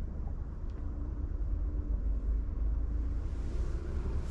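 Low, steady rumble with no clear source, with a faint hum in the first couple of seconds.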